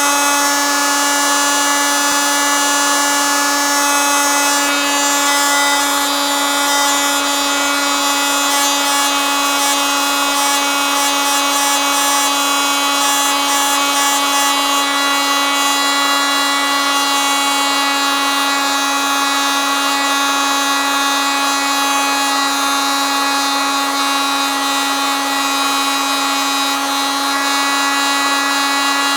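Oscillating multitool running steadily: a continuous, even buzz that holds one pitch throughout.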